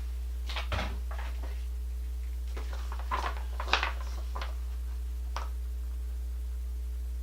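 Light clicks and knocks from small plastic parts and wire connectors being handled, a few at a time with the sharpest about halfway through, over a steady low hum.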